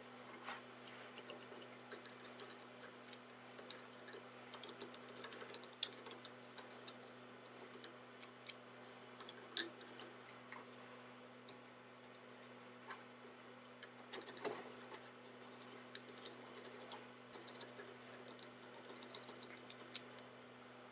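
Faint, irregular clicks, taps and scratches, with a slightly stronger cluster about two-thirds of the way through, over a steady low hum.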